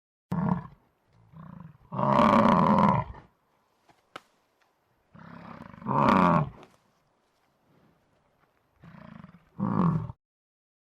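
A large animal's deep, loud roaring calls: three long calls about a second each, each led by a softer breath-like sound, with a short grunt at the start.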